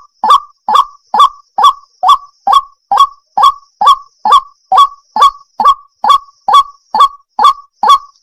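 Water hen calling over and over, a short honking note about twice a second at a very even pace.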